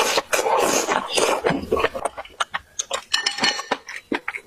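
Eating utensils clinking and tapping against dishes during a meal: a quick run of short, sharp clicks, busier in the first two seconds and more scattered after that.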